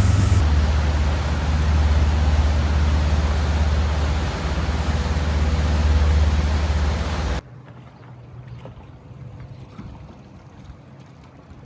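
Motorboat engine running steadily under way, a low drone with the rush of water and wind over it. About seven seconds in it cuts off suddenly to a much quieter background of gentle water and wind.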